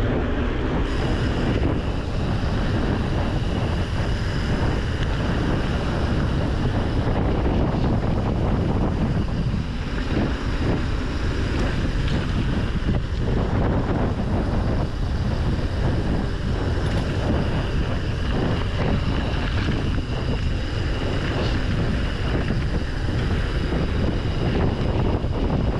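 Steady wind noise rushing over the camera's microphone on a moving bicycle ridden fast along a trail.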